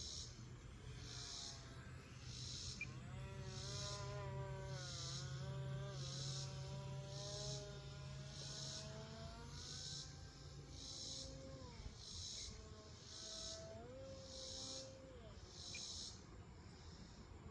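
The E-flite UMX Turbo Timber Evolution's small electric motor and propeller whine in flight, the pitch gliding up and down with throttle and distance. Crickets chirp throughout in even pulses, about once a second.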